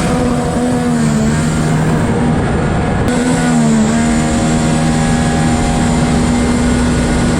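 Racing jet ski engine running at high revs, a steady high note that sags and wavers briefly about three seconds in before holding level again.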